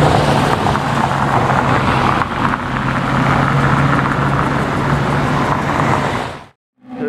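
Ferrari 812's V12 running at a steady low note as the car drives off, over street traffic noise. The sound fades out to silence near the end.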